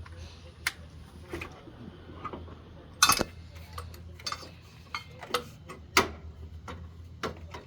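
Irregular metallic clicks, clinks and clanks, about a dozen single knocks with the loudest about three seconds in and at about six seconds, over a steady low hum.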